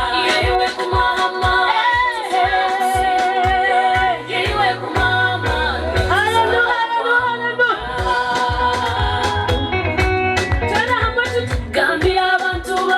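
A voice singing a melody with vibrato over a pop backing track with a steady drum beat.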